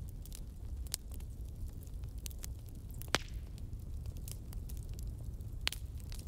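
Fire crackling: a steady low rumble with scattered sharp snaps and pops, one louder pop about three seconds in and another near the end.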